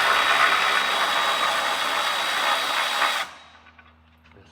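Handheld power tool running steadily, then stopping abruptly about three seconds in.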